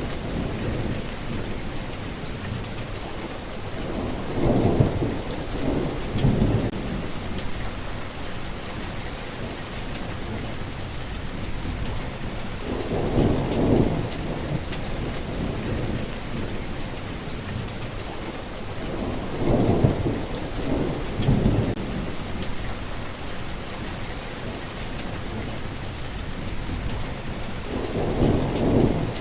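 Steady rain falling, with low rolls of thunder swelling up and dying away about four times.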